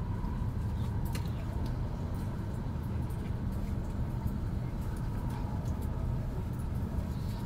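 Steady low rumble inside a moving Shinkansen bullet train car, with a faint steady whine above it.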